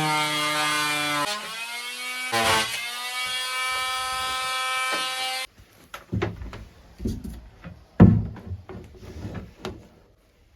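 Oscillating multi-tool cutting into a fiberglass berth liner. It buzzes loudly, its pitch sagging as the blade bites, pauses about a second in, runs again steadily and stops abruptly about five seconds in. A few knocks and thumps follow, the loudest about eight seconds in.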